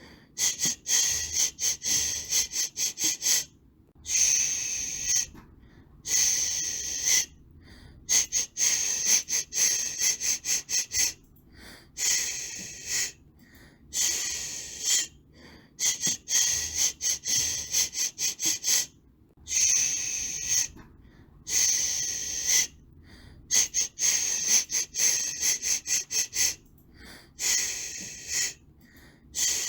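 Rhythmic shushing for soothing a baby: long 'shhh' hisses alternating with runs of quick short 'shh' pulses, repeating over and over with brief pauses between.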